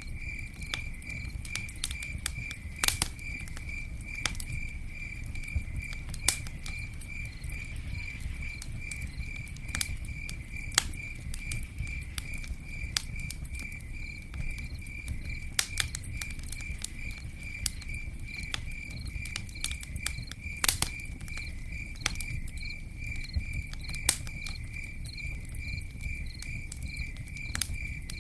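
Campfire crackling, with sharp pops every second or two over a low steady rumble. A cricket chirps evenly about twice a second behind it.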